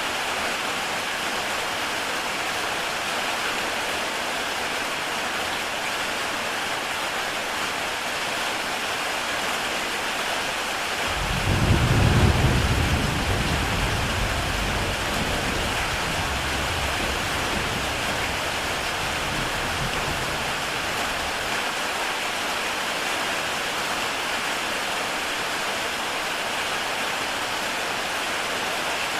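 Heavy rain falling steadily on a tile roof, an even hiss. About a third of the way in, a low rumble of thunder swells quickly and fades away over about ten seconds.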